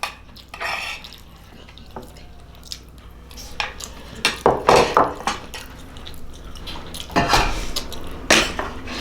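Metal spoon clacking and scraping against a glass bowl, with close-miked eating sounds. The clinks and scrapes come irregularly and grow louder from about halfway through.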